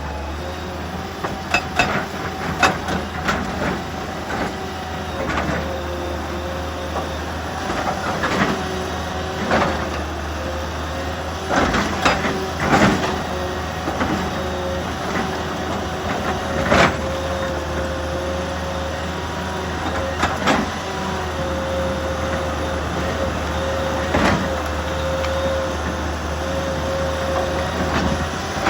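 An excavator's diesel engine runs steadily under a held hydraulic whine. Irregular sharp knocks of rock and steel strike every second or few, some louder than others.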